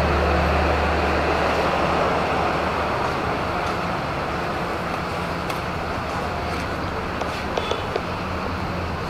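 Vehicle engine noise: a steady low hum over a broad rush that eases off after about three seconds.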